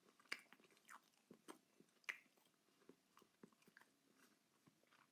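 A person chewing chicken nuggets close to the microphone: quiet, irregular mouth clicks and soft crunches, with two sharper ones about a third of a second and about two seconds in.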